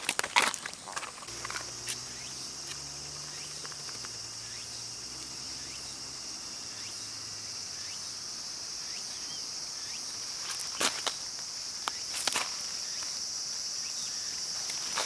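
Steady high-pitched chirring of insects that sets in about a second in, with a few sharp snaps of a crackling wood fire near the start and again near the end.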